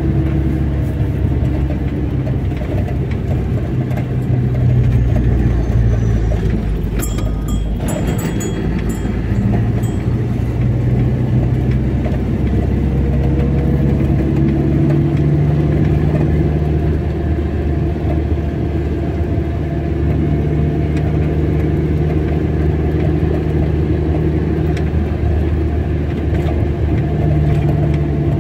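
Car driving on a road: a steady engine hum with tyre and road noise, its pitch shifting a few times as the engine speeds up and settles. A short run of clicks comes about seven to ten seconds in.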